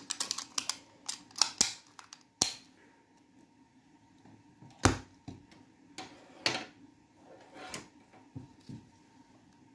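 Irregular sharp clicks and taps of small plastic parts being handled while fitting an electrical plug to a vacuum cleaner cord, about a dozen over the stretch, the loudest about five seconds in.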